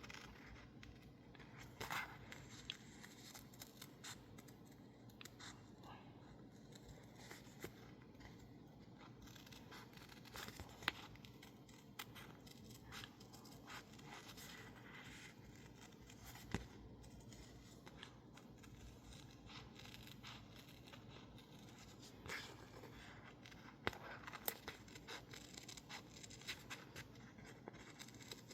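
Scissors cutting sticker label paper in short, irregular snips, with faint paper rustling and a few sharper clicks.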